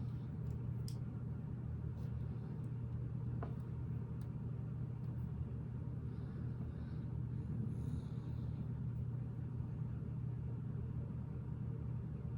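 Steady low background hum, with a few faint clicks and light rustling of Lego pieces being handled and pressed together.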